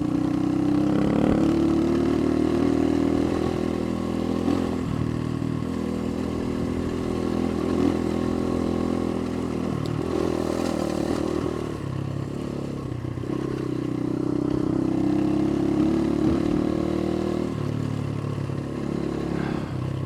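Motorcycle engine running under way, heard from the bike as it is ridden. The engine note rises and drops several times with throttle and gear changes.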